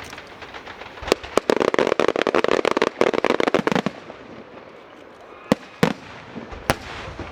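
Fireworks going off: a dense run of rapid crackling pops from about a second in until nearly four seconds, then three separate sharp bangs near the end.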